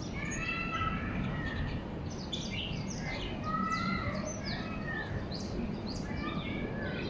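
Several small birds chirping and calling, with many short rising and falling notes, over a steady low background rumble.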